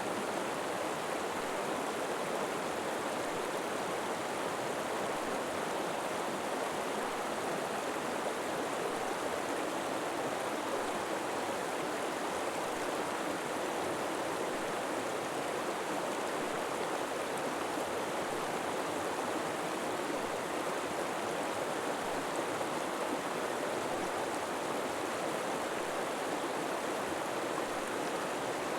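River water flowing steadily over rocks: an even, unbroken rush with no other sounds.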